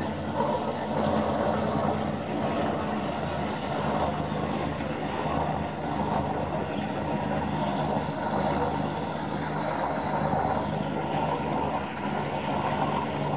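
Tourist boat's engine running steadily at low speed as the boat manoeuvres to berth in the harbour: a continuous low hum.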